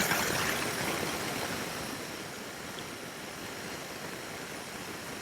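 Steady rush of wind and road noise while riding a motorcycle at highway speed, louder for the first second or two and then settling to an even level.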